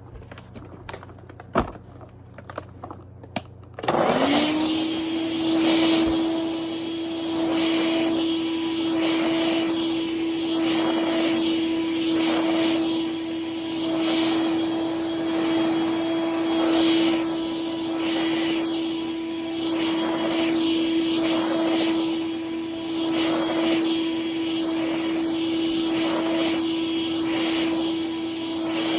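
Eureka The Boss Superlite 402 vacuum cleaner: a few clicks and knocks, then the motor switched on about four seconds in, spinning up to a steady whine with a rush of air. Its sound swells and dips every second or two while it runs.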